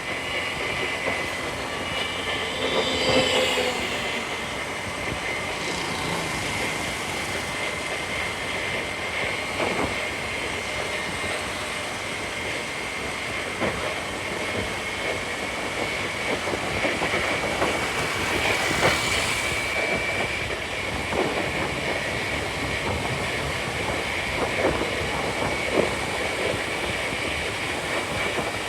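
Scooter riding through city traffic: a steady mix of engine, wind and road noise with a thin constant whine, and a brief louder pitched sound about three seconds in.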